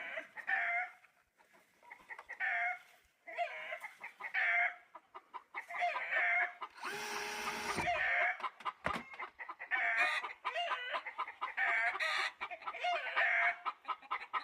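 Chickens clucking over and over in short repeated calls. About seven seconds in, a one-second noisy mechanical burst with a steady hum cuts in, and a single sharp knock follows near nine seconds.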